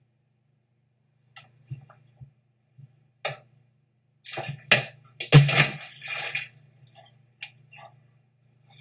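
Irregular clicks, knocks and short scraping rustles from an unseen source, the loudest cluster about four and a half to six and a half seconds in, over a faint steady low hum.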